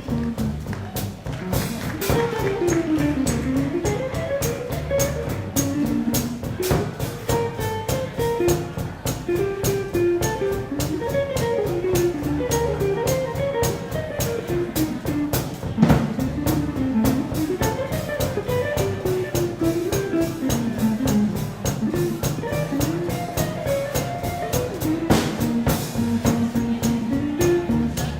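Live swing band playing an instrumental passage: a quick single-note melody line over a bass line and a steady drum beat.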